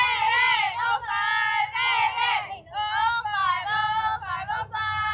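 Children's high voices chanting a sing-song cheer in several drawn-out phrases.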